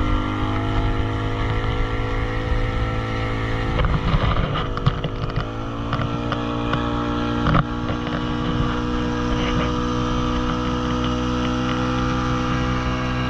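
Motorboat engine running at a steady speed while towing a banana boat, with rushing water noise around four to five seconds in and a single sharp knock about seven and a half seconds in.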